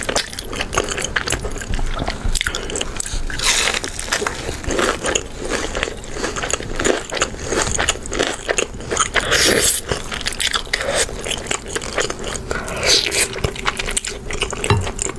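Close-miked mukbang eating: steady biting and chewing with crunchy, wet crackles and clicks of food in the mouth.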